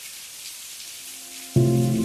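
Steady rain hiss. A soft low tone enters about a second in, then near the end calm music comes in suddenly and loudly with a sustained chord over the rain.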